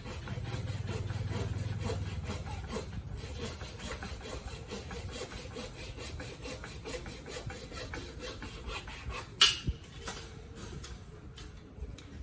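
Rapid, evenly repeated scraping strokes, about four a second, with one sharp loud knock about nine seconds in.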